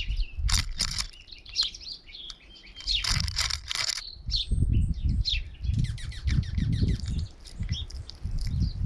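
Small songbirds at a feeder chirping and calling in quick, overlapping short notes, with low gusts of wind buffeting the microphone.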